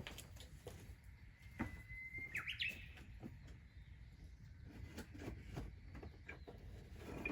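A bird calls once about two seconds in: a short held note that breaks into quick rising and falling chirps. Scattered faint clicks run under it.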